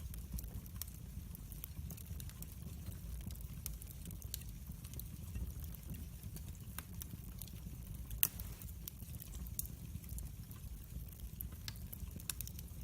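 Wood fire burning in a fireplace: a steady low rumble of flames with scattered sharp crackles and pops, one louder pop about eight seconds in.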